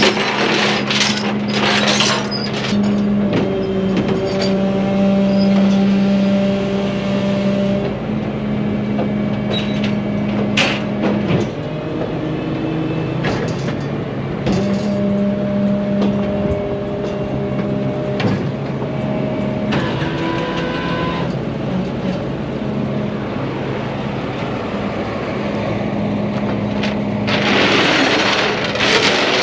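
Heavy truck engine running steadily, with a whining tone that starts, stops and changes pitch several times, and scattered clicks and knocks. Near the end comes a loud hiss lasting about two seconds.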